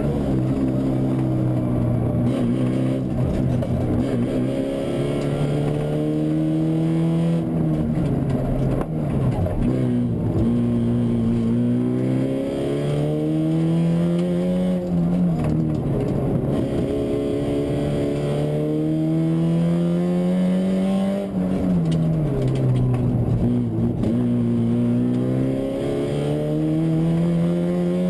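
Fiat Punto 1.8 rally car's four-cylinder engine heard from inside the car at speed on a stage. The engine note climbs steadily under load for several seconds, then drops back and climbs again, about four times over.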